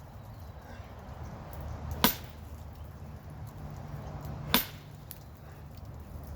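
Sledgehammer blows: two heavy strikes about two and a half seconds apart.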